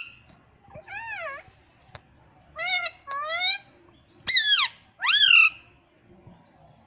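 Indian ringneck parrot calling: five short, shrill calls that bend up and down in pitch, spaced out with pauses between them.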